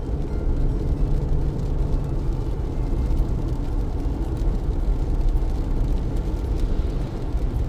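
Car driving through heavy rain: a steady low rumble of engine and tyres on the wet road, with a faint wash of rain over it.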